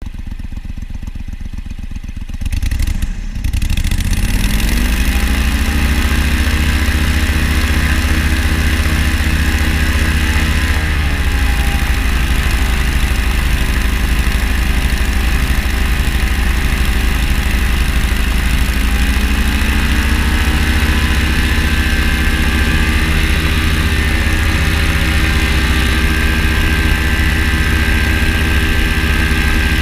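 An engine cranked by its starter for about three seconds, catching and then running steadily at idle. Its speed drops about eleven seconds in and picks up again around twenty seconds.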